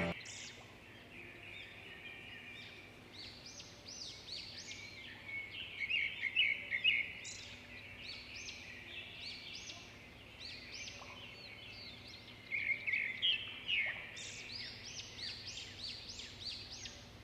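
Birds chirping and singing: many short, quick whistled notes that rise and fall, coming in busier flurries about six seconds in and again from about thirteen seconds.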